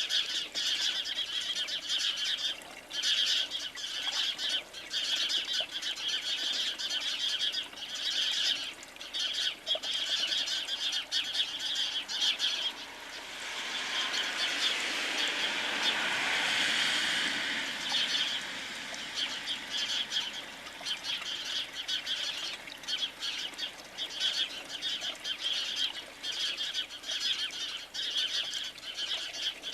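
Small birds chirping in a dense, continuous chatter. A broad rushing noise swells and fades again around the middle.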